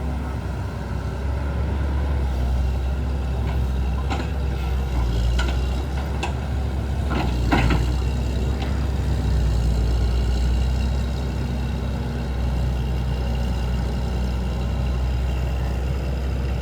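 A motor running steadily with a low rumble, with a few sharp knocks about four to eight seconds in.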